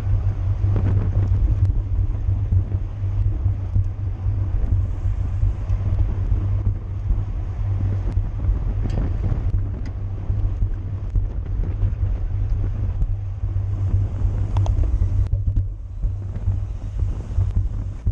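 Wind buffeting the microphone of a camera on a bicycle moving at race speed: a steady low rumble with no letup.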